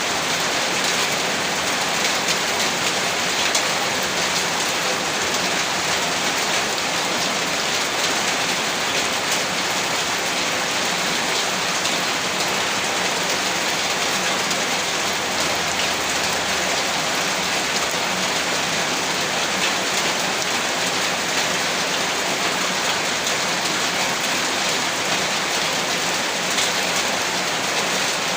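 Heavy rain falling on a rooftop: a steady, dense hiss that keeps an even level throughout.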